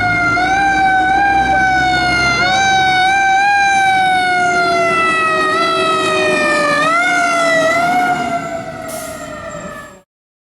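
A 1995 KME fire engine's siren wails, its pitch sliding slowly down and being pushed back up briefly about four times, over the low rumble of the truck. It fades near the end, then cuts off abruptly.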